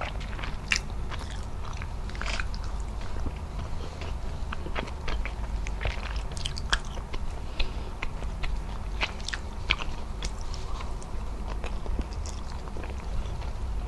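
Close-miked eating sounds: chewing with many sharp wet clicks and mouth smacks while adobo-braised beef shank and rice are eaten by hand.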